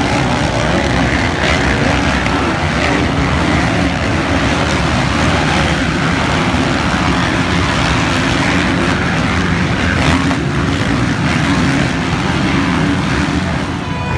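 Motocross motorcycle engines running, a loud, steady engine din with no pause.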